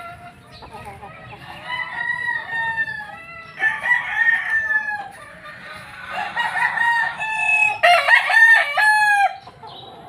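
Several gamecock roosters crowing one after another, their long drawn-out crows overlapping, with the loudest crow near the end.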